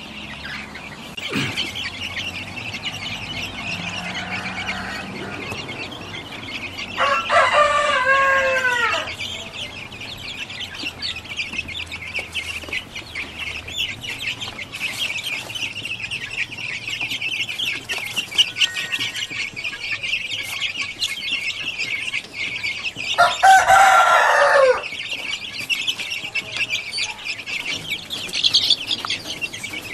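Roosters crowing twice, each crow about two seconds long, about a quarter and three quarters of the way through, over a steady high-pitched chirring.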